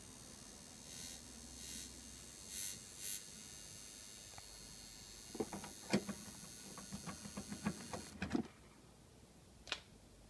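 Apogee DA16X converter's internal power transformer buzzing steadily with a whining hiss, a faulty transformer making unusually loud noise. A run of clicks and knocks comes past the middle, then the high whine cuts off abruptly, followed by one sharp click.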